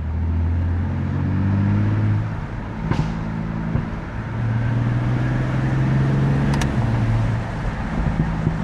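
BMW F80 M3's S55 twin-turbo inline-six running at a steady cruise, heard from the cabin. The engine note eases off about two seconds in, then picks back up and holds for a few seconds before easing again.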